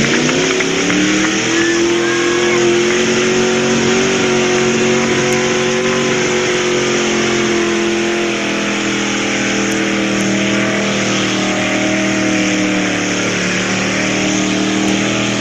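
A 1987 Chevrolet pickup's engine at full throttle under load on a truck-pull run: it revs up sharply at the start, then holds a high, nearly steady pitch with small dips as the truck pulls down the track.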